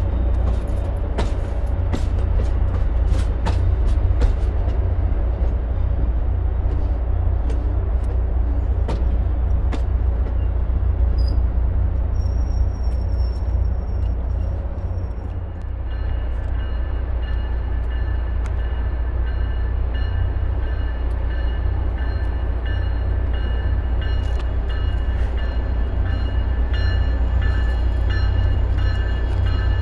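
A train at a station: a loud, steady low rumble with scattered sharp clanks and knocks. About halfway through, several faint steady high tones join in.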